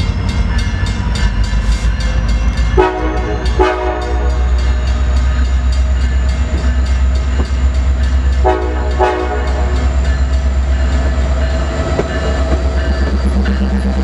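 Train passing with a steady low rumble, its locomotive air horn giving two short blasts about three seconds in and two more about eight and a half seconds in. Wheels click over rail joints in the first few seconds.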